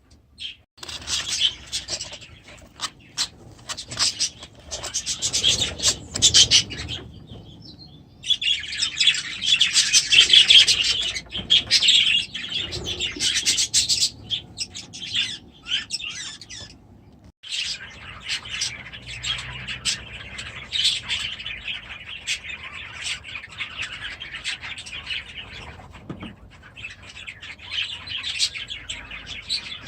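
A flock of budgerigars chattering and chirping continuously, in busy overlapping calls, with a louder spell about eight seconds in and a brief lull near the middle.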